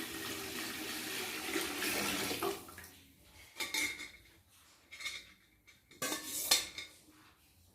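Water and chicken-boiling broth poured into a cooking pot of masala for about two and a half seconds, then a few short clinks of a metal vessel or utensil against the pot.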